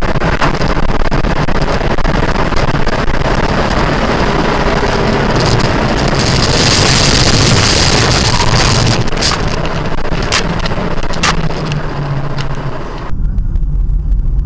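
Vehicle driving noise, a loud, steady road and wind rush, swelling into a brighter hiss for a few seconds in the middle, with a few sharp clicks after it. It changes abruptly to a lower rumble near the end.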